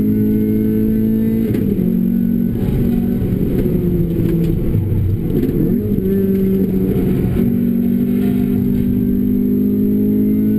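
Renault Clio RS four-cylinder engine with a Bastuck aftermarket exhaust, running hard at high revs under load, with steady tyre and road rush. The engine note drops a little about a second and a half in, wavers lower for a couple of seconds in the middle, then climbs back and holds.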